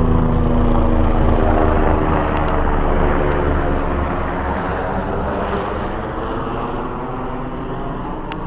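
Kawasaki KLX110 dirt bike's small single-cylinder four-stroke engine running, its pitch rising and falling as the throttle changes, growing gradually quieter toward the end.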